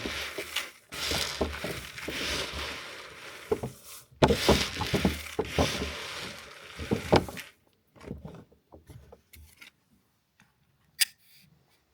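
Dry bird seed and mealworms rustling and scraping as they are mixed by hand in a container, with many small clicks. It stops about seven and a half seconds in, leaving a few faint clicks.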